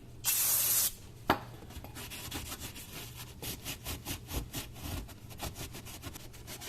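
A short hiss of spray, a sharp click, then quick repeated rubbing strokes, as the welded metal is scrubbed clean by hand.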